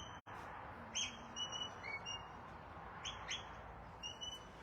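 Shepherd's whistle commands to a working border collie: several short, high whistles, each sweeping up and then held briefly on a steady note, some in quick pairs.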